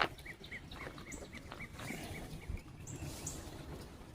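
A bird calling a rapid series of short repeated chirps, about four a second, that stops a little under two seconds in, with a few thin high notes scattered through. A single sharp click right at the start.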